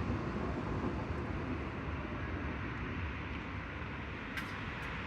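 Tram running, a steady low rumble with a couple of sharp clicks near the end.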